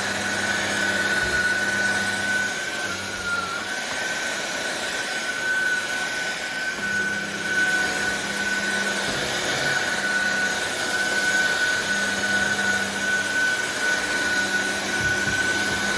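Cordless stick vacuum cleaner running on a hard floor: a steady high motor whine over the rush of air, with a lower hum that comes and goes as the head moves.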